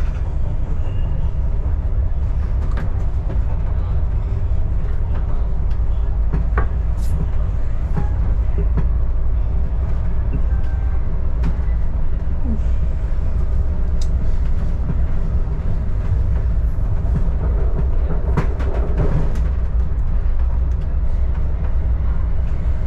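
Adelaide Metro diesel railcar running along the track, a steady low rumble with scattered clicks and knocks from the wheels over the rails, heard from on board.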